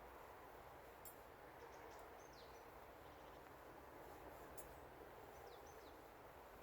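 Quiet forest ambience with a bird giving two brief runs of faint, falling chirps, the first about a second and a half in and the second about four and a half seconds in.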